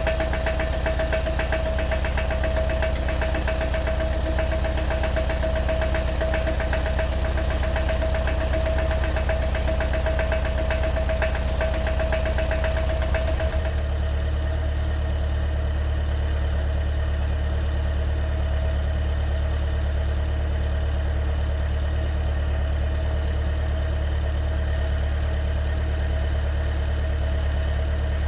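Pinzgauer engine running steadily at idle with a fast, fine ticking and a steady whine over it; about halfway through these drop away abruptly, leaving a deeper, smoother running sound.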